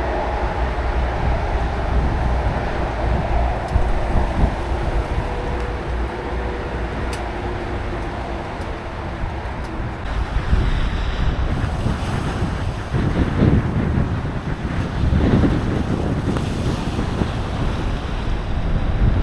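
Wind buffeting the microphone of a camera on a moving bicycle: a steady rumble and hiss that turns gustier and louder about halfway through.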